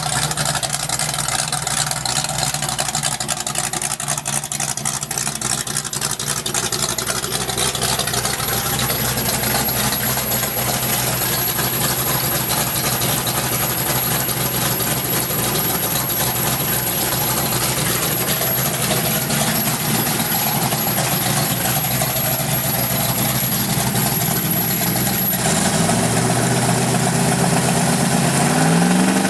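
Freshly installed Oldsmobile 350 V8 idling steadily, then revving up about three seconds before the end.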